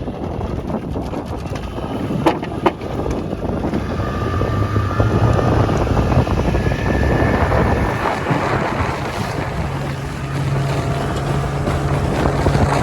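Small boat's outboard motor running under way, with wind buffeting the microphone. The engine hum steps up a little in pitch about eight seconds in. Two sharp knocks come about two seconds in.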